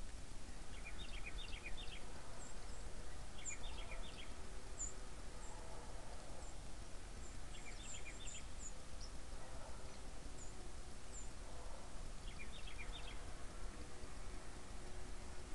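Small songbirds calling: four clusters of quick short chirps spread through, with thin, very high single notes scattered between them, over a steady low rumble.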